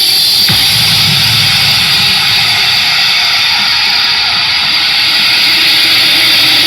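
Very loud, steady noisy roar with no beat, played through a sound-system rig between music tracks.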